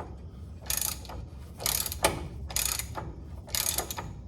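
Hand socket ratchet wrench working a nut or bolt, giving a short burst of ratcheting clicks about once a second, one for each back-and-forth stroke.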